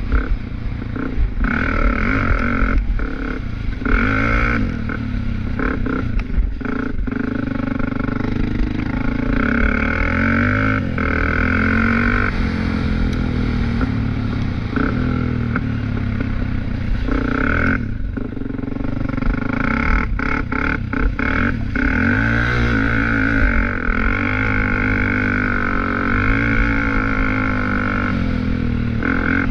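Small off-road vehicle engine running and revving repeatedly, its pitch rising and falling, with some clatter.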